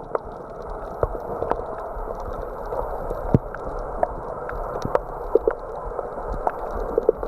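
Muffled gurgling water with scattered short clicks and knocks.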